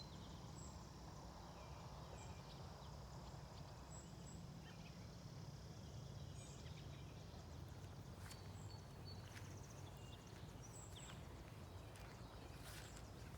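Faint outdoor ambience: a steady low rumble with faint, scattered bird chirps, and a few soft clicks or rustles in the last few seconds.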